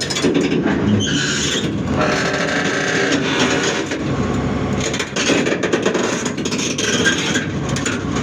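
Large excavator's diesel engine running under load, with metal squealing and scraping as the machine works the load.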